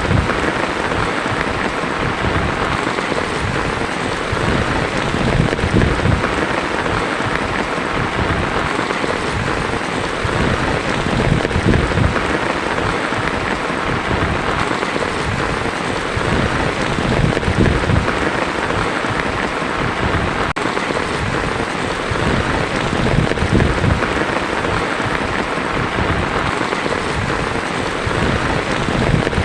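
Heavy rain drumming steadily on a tin roof, with a low rumble underneath that swells every few seconds.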